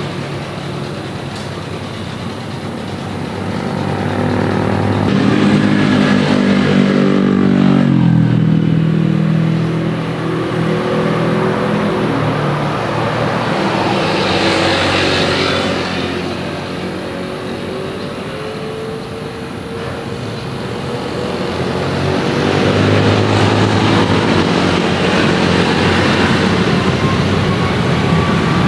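Engines of passing vehicles, loud and continuous, with one engine's pitch falling as it goes by about seven seconds in.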